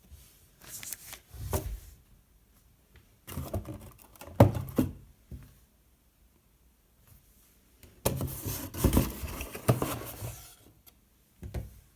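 Items and packaging being handled and unboxed: rustling and clattering in three bursts of a few seconds each, with a short one near the end.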